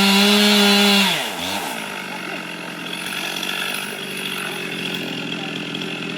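Two-stroke chainsaw running at high revs, then the throttle is released about a second in. The pitch falls and the saw settles into idling.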